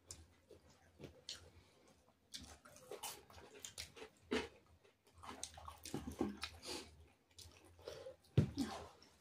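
Faint wet chewing and lip-smacking of people eating rice and meat curry with their fingers, with scattered small clicks and a slightly louder mouth sound near the end.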